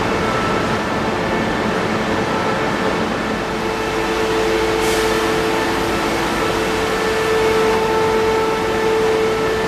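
Renfe AVE high-speed electric train at a platform: a steady hum from its running electrical and cooling equipment, with a few steady tones. A brief high hiss about five seconds in.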